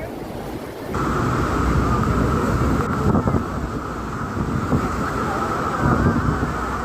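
Wind buffeting the microphone over the steady rumble and rush of a tour boat and water, growing suddenly louder and fuller about a second in.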